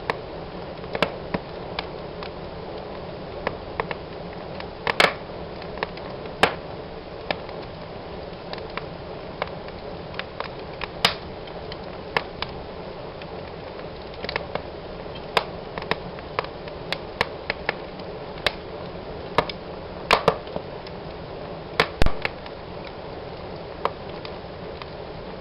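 Wood fire burning in a fireplace: a steady soft hiss with irregular sharp crackles and pops, a few of them much louder than the rest.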